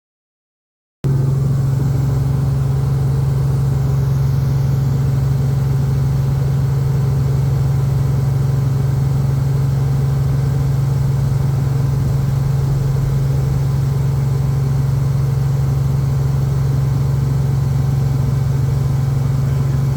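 Helicopter drone of engine and rotor heard from inside the cabin: it starts abruptly about a second in, then runs steady and loud with a strong low hum.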